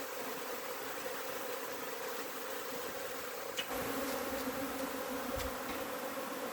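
Honey bee swarm buzzing steadily as the bees move into a hive box, the hum a little louder for the second half.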